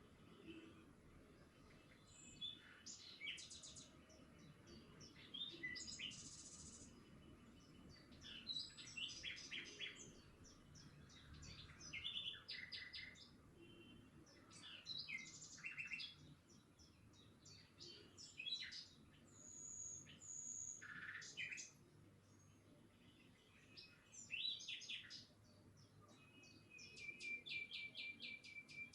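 Birds chirping and singing faintly: short bursts of rapid repeated high notes and trills every second or two.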